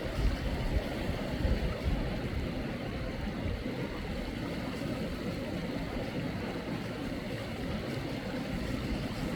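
Mountain stream water rushing steadily, an even, unbroken wash.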